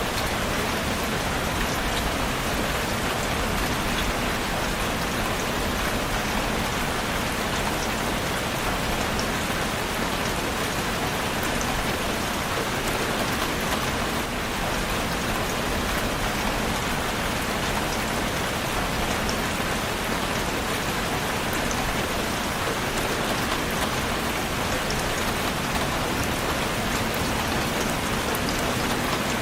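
Steady rain falling on a surface, an even hiss with scattered drop ticks throughout.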